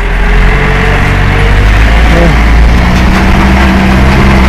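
Truck engine running with a steady low drone, heard from on board the moving truck.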